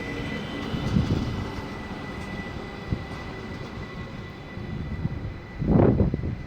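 A train running at a station: a steady rumble with a faint, steady high whine over it. Near the end there is a short, louder rushing burst.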